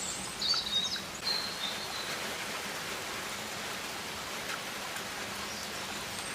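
Rainforest ambience: a steady rain-like hiss, with a few short, high bird chirps in the first second and a half.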